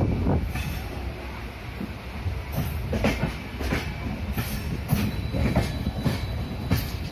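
Passenger train coach running on the track: a steady rumble with an irregular series of sharp wheel clacks over rail joints and points.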